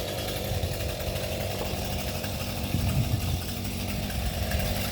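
Small gas chainsaw engine idling steadily, a little louder for a moment about three seconds in.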